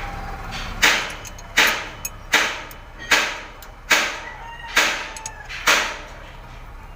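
Seven sharp, rasping metal strokes at an even pace, a little under one a second: a wrench tightening the intake valve-clearance adjuster on a Howo 336 diesel engine.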